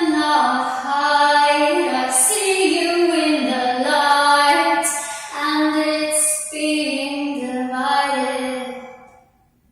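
A woman singing a slow solo worship melody, long held notes sliding between pitches, with a few breathy hisses between phrases. The voice stops shortly before the end.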